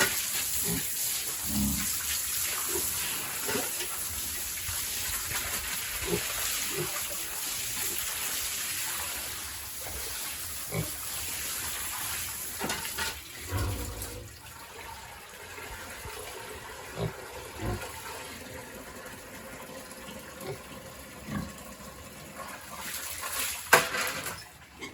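Water spraying hard from a hose, a steady hiss that weakens after about thirteen seconds, with a few short knocks and pig grunts scattered through it.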